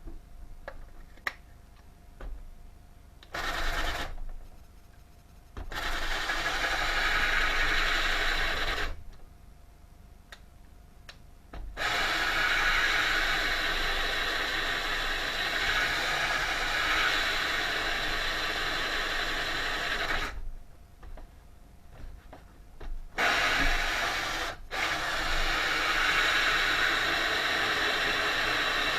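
Power tool working plywood and timber while fitting parts and working the seams, running in steady stretches of several seconds with short pauses and a few clicks between them.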